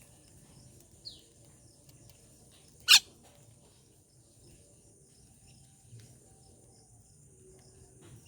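A faint, short, falling bird chirp about a second in, then one loud, sharp snap near three seconds in, over a steady faint high hiss.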